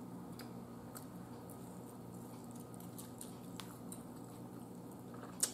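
Faint close-miked eating sounds: chewing, with small scattered mouth clicks and fingers pulling apart a fried sausage patty, over a steady low hum. A sharper click comes right at the end.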